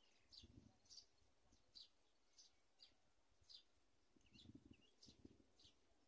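A bird giving faint, short high chirps over and over, about one every half second. Low rumbles come through shortly after the start and again after about four seconds.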